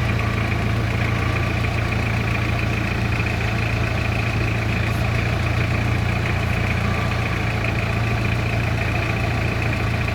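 Willys CJ5 jeep engine idling steadily, with no revving.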